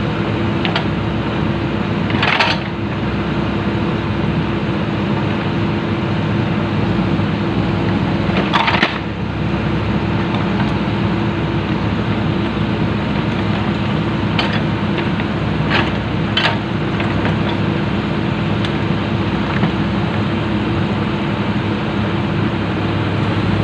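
Komatsu PC-200 excavator's diesel engine running steadily, with a few sharp metallic clanks: two about 2.5 and 9 seconds in, and a cluster of three between about 14 and 17 seconds.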